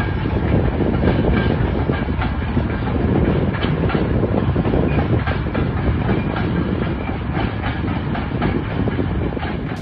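A train running past close by: a steady heavy rumble of wheels on rails with a continuous clatter of rapid knocks.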